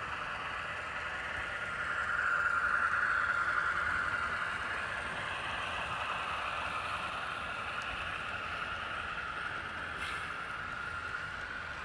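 HO scale model trains running on the layout: a steady whir of small motors and metal wheels rolling on rail, growing louder for a couple of seconds about two seconds in as a train passes close.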